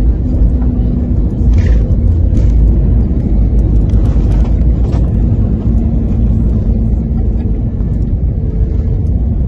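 Airbus A321neo on its landing roll, heard from inside the cabin: a heavy, steady low rumble that jumps up suddenly at the start, as on touchdown, with a few light rattles about two and four seconds in.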